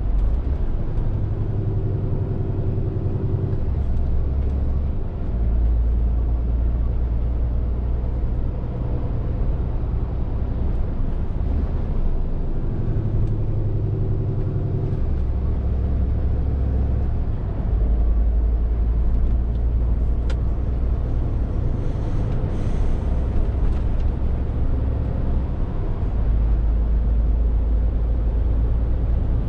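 Scania R450 lorry's diesel engine running under way, a steady low drone whose pitch steps up and down every few seconds as the engine speed changes.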